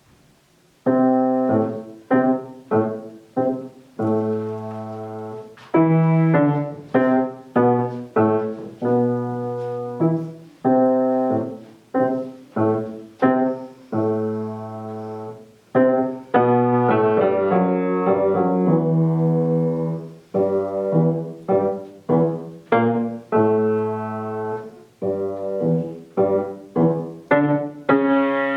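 Solo piano playing a slow piece in A minor, starting about a second in. It alternates groups of short struck chords with longer held chords, and each chord dies away after it is struck.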